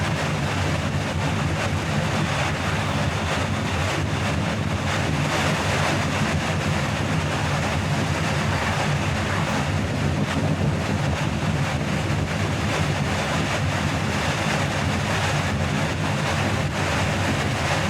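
A car on the move: steady road and engine noise with wind rush.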